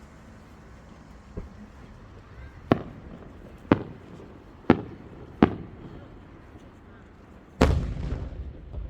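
Aerial fireworks shells bursting: a faint pop, then four sharp bangs about a second apart, then a louder, deeper boom near the end that rumbles on for about a second.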